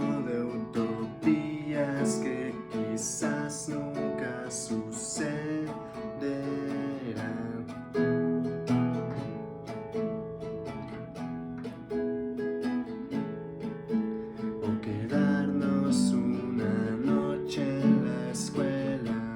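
Music: an acoustic guitar strummed and picked, playing chords.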